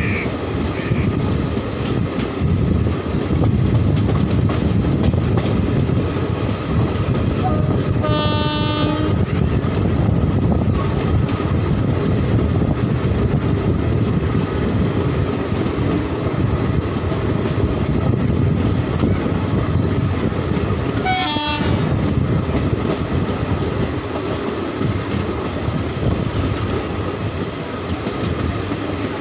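Passenger express train running at speed, heard from an open coach door: a steady rumble of wheels on the track with clickety-clack. A train horn sounds twice, for about a second around a third of the way in and briefly again about three-quarters through.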